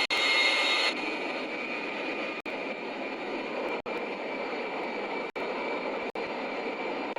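Airplane engine noise: a steady rush with a high whine on top, broken by brief silent gaps every second or so where separate clips are joined.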